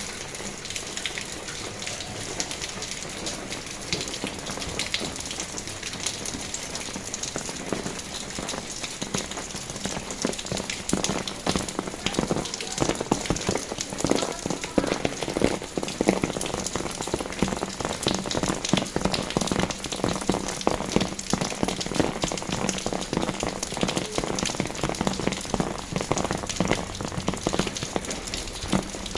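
Rain falling on a paved road, a dense patter of many drops that grows heavier and louder about ten seconds in.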